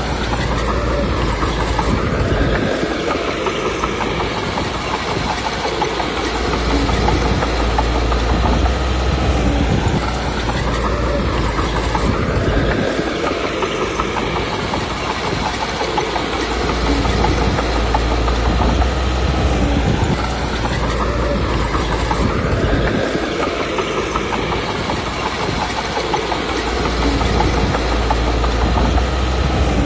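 Komatsu D21P crawler bulldozer working: its diesel engine runs under changing load while its steel tracks clank and squeak. The engine note rises and falls in repeating cycles about ten seconds apart, as the dozer pushes forward and backs up.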